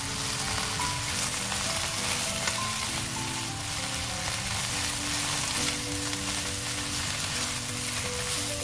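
Spinach and sliced shiitake mushrooms sizzling steadily in a hot frying pan as they are stirred with a silicone spatula, under soft background music.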